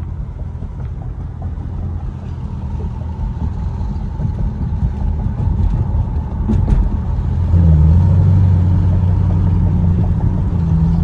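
Car engine and exhaust running while driving, a steady low drone that gets louder about seven and a half seconds in, as under more throttle. There are two brief clicks shortly before the rise.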